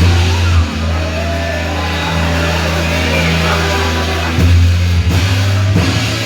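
Live worship band playing loud, upbeat music with a drum kit and a bass line whose held notes change every second or so.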